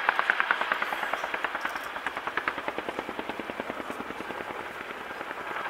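Boeing Chinook tandem-rotor helicopter in flight, its rotor blades slapping in a rapid, even beat. It is loudest at the start and eases a little over the next few seconds.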